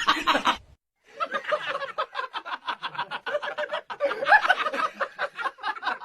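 A person laughing in a long run of quick, repeated ha-ha bursts, starting after a brief silence about a second in.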